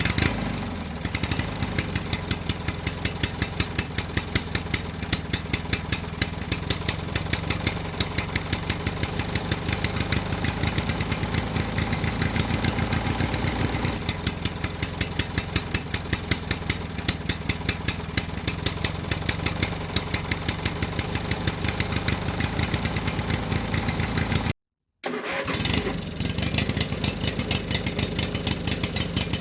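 A small engine starts and runs steadily with a fast, regular pulse. It cuts out for about half a second near the end, then carries on running.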